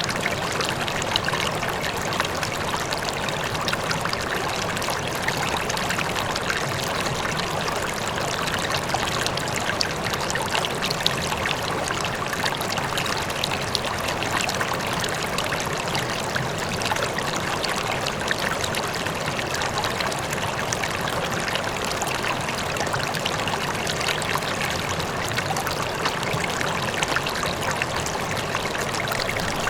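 River water flowing over rocks, a steady rushing and burbling with many small splashes, with a distant waterfall.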